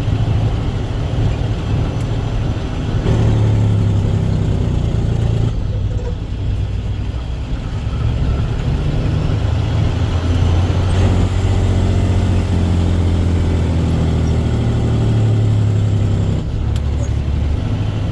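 Dump truck's diesel engine running under way, heard from inside the cab, its note rising and dropping a few times as the driver works the truck down the haul road.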